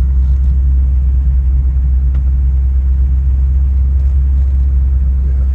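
1958 Ford Thunderbird's V8 running at a slow, steady cruise, a constant low rumble heard from inside the car.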